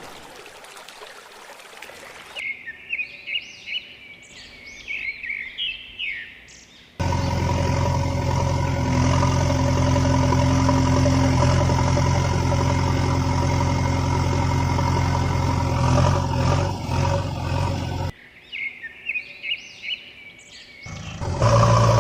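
Birds chirping in short high calls, then a vehicle engine running steadily for about eleven seconds, starting and cutting off abruptly. The birds chirp again, and the engine comes back just before the end.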